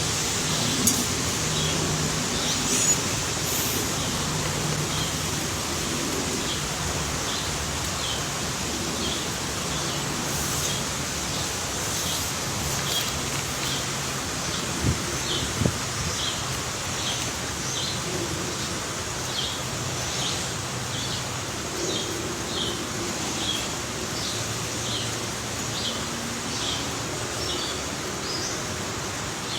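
A bird giving short, high chirps over and over, a little more than one a second, over a steady hiss of background noise.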